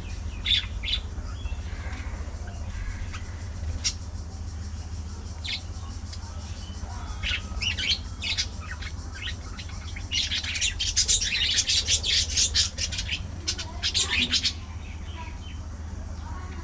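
Budgerigars chirping and squawking: scattered short calls, then a dense burst of rapid chatter from several birds about ten seconds in that lasts around four seconds, over a steady low hum.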